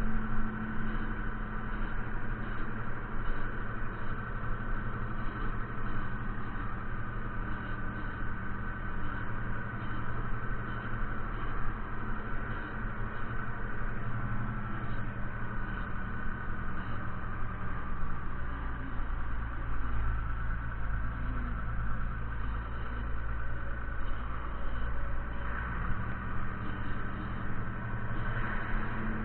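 Fiatagri 130-90 tractor's diesel engine running at a steady, even drone.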